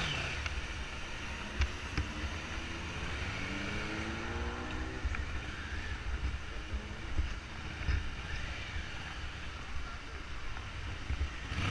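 Ambulance motorcycle riding through traffic: engine running under a steady rumble of wind and road noise, rising in pitch as it accelerates about four to five seconds in.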